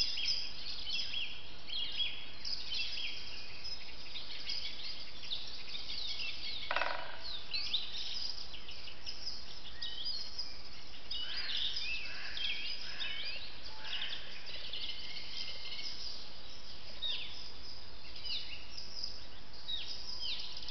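Several woodland birds singing at once: many short, high chirps and trills overlapping throughout, busiest in the middle, with one lower call about seven seconds in.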